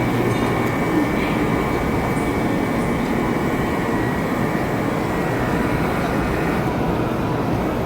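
Shinkansen train running at the platform: a steady rumble with a faint high whine that fades out near the end.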